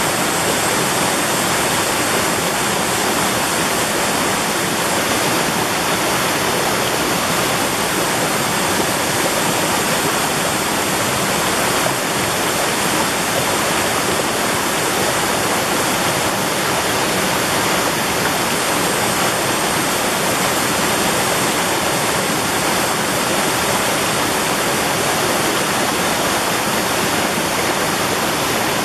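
Mountain valley stream rushing over rocks, a steady, unbroken loud rush of water.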